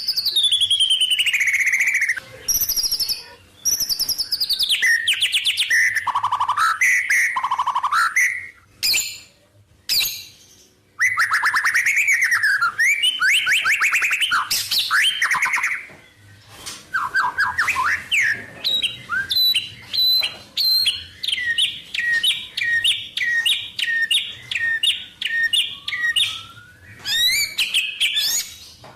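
White-rumped shama singing a varied song of loud whistled phrases, sweeping notes and rapid trills, with mimicked calls of other wild birds worked in. Past the middle it keeps up a long run of quick, evenly repeated two-part notes.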